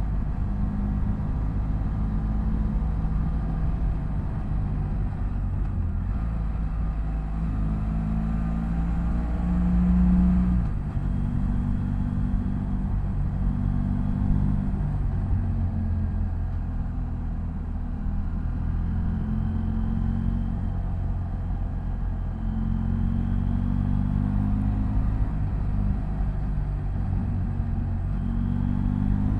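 BMW F800GS parallel-twin engine running under way, its pitch rising and falling with throttle. The pitch climbs to about ten seconds in, then drops suddenly, as in a gear change or closing the throttle. There is a steady low rumble underneath.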